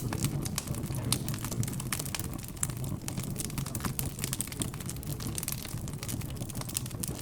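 Fireplace crackling: irregular snaps and pops of burning wood over a low, steady murmur of background chatter.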